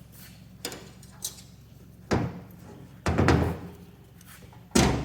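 Heavy metal lathe parts clunking and knocking as a Monarch 10EE compound slide is taken apart: a couple of light clicks, then three louder clunks in the second half, over a steady low hum.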